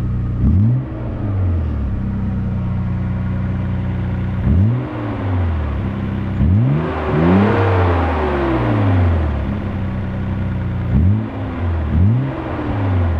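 Nissan R32 Skyline GT-R's RB26DETT twin-turbo straight-six revved in quick throttle blips from a steady idle, about five times, each rev climbing and falling back. The longest and highest rev, near the middle, brings a rush of wider noise.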